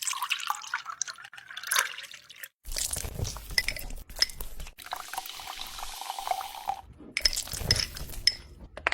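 Water and other liquid sounds, splashing and dripping, with clinks of glass, in a few short clips that cut abruptly from one to the next.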